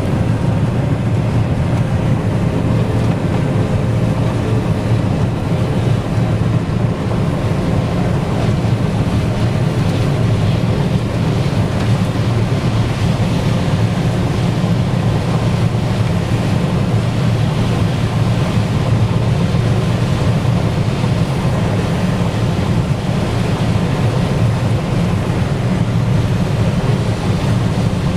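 Combine harvester running steadily while harvesting corn: a loud, even machine drone with no breaks.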